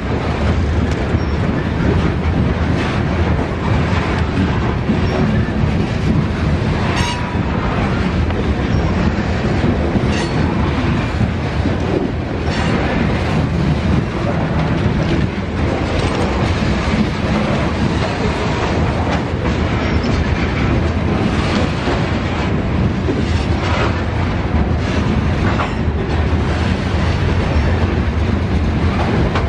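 Freight train cars rolling steadily past, their wheels clicking and clattering over the rail joints under a continuous low rumble.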